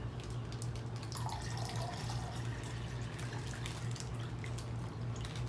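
Water dripping and trickling as fish are moved from their bag into a jar, over a steady low hum.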